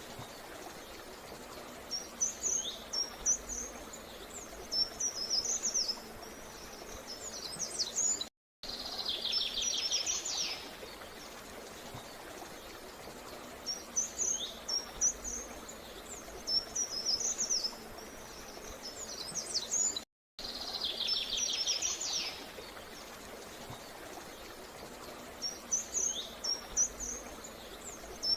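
Small birds singing over a steady faint hiss: clusters of short, high chirping phrases and a fast trill, each trill coming right after a brief dropout to silence. The same sequence repeats about every twelve seconds, as a looped recording.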